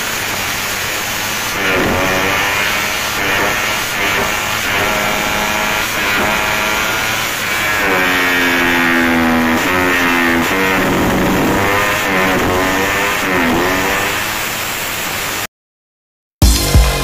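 Motorcycle engine with an aftermarket racing exhaust revved repeatedly, pitch rising and falling with each blip and one longer held rev in the middle. It cuts off near the end, and loud electronic dance music starts.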